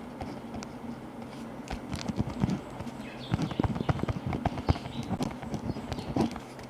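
Pen writing on paper: a quick, irregular run of taps and short scratchy strokes over a steady background of white noise and low hum.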